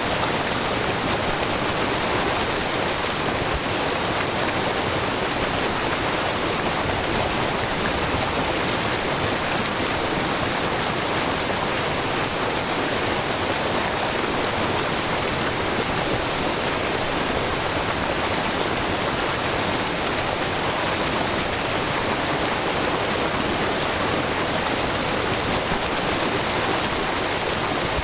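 A low, wide waterfall of spring water falling over a rock face, a steady and even rush of water with no change throughout.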